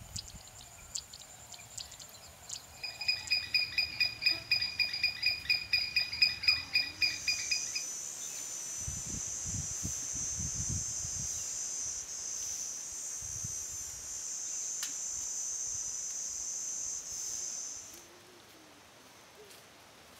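Insect chirping and drone: a fast, pulsed high chirp repeating about four times a second for some five seconds, then a steady high-pitched insect buzz that runs for about ten seconds and cuts off, with a few soft low thumps partway through.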